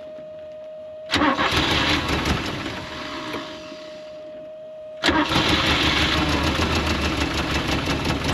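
Classic car's engine started twice. It catches suddenly about a second in, runs for a couple of seconds and dies away, then fires again about five seconds in and runs steadily. A steady tone is heard before each start and drops out while the engine runs.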